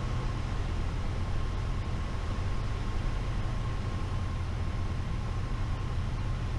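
Light aircraft's engine and propeller droning steadily, heard inside the cockpit, with a faint steady high tone over it.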